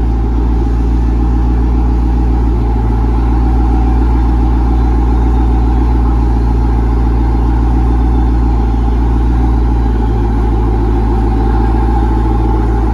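Dodge V8 engine running steadily, a loud, even drone.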